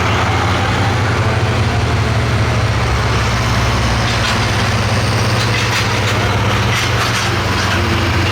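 Pulling tractor's large turbocharged diesel engine idling steadily at low revs.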